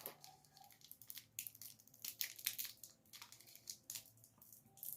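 A crinkly Hi-Chew candy wrapper being torn open and handled: a busy run of sharp, irregular crackles, loudest in the middle.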